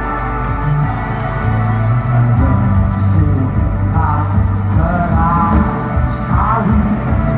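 Live band music with a voice singing. A steady bass and drum pulse comes in about two and a half seconds in, and the singing starts about four seconds in.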